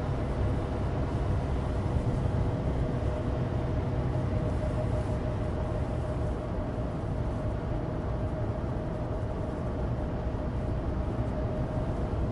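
On-board sound of a Suzuki Alto Turbo RS (HA36S, 660 cc three-cylinder turbo) driving at steady speed on studless tyres: even engine and tyre rumble with a steady hum above it.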